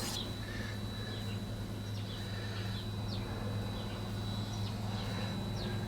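Small birds chirping, short falling chirps every half second or so, over a steady low hum.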